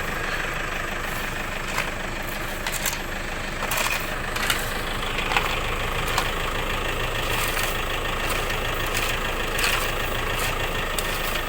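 An engine running steadily at a low, even speed, with scattered sharp clicks and knocks over it.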